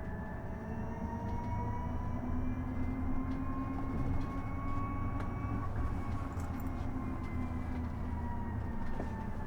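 Isuzu Erga EV electric bus heard from inside: the electric drive's whine over road and tyre rumble, its pitch rising as the bus gathers speed and easing slightly down near the end.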